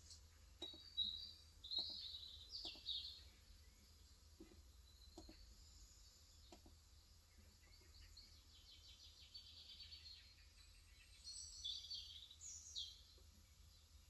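Faint bird chirps in two short bursts, one about a second in and another near the end, over quiet room tone. In between come a handful of soft, irregularly spaced keystrokes on an electro-capacitive keyboard.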